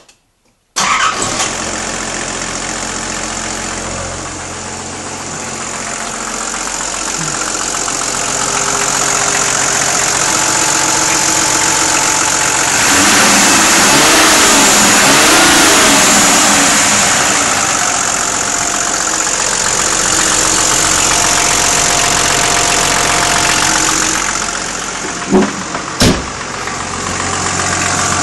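Nissan Patrol engine running, coming in suddenly about a second in and then running steadily; for a few seconds mid-way it is revved up, louder with a rising and falling pitch, then drops back. Two short sharp knocks sound near the end.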